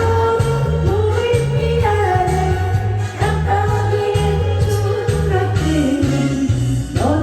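A solo voice singing a Korean trot song over a backing track, with held notes that slide between pitches above a steady, repeating bass line.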